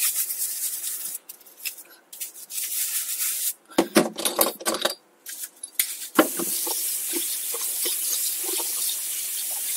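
Irregular clicks and knocks of a bicycle cassette being handled during washing, then, from about six seconds in, water running steadily as the soapy cassette is rinsed off.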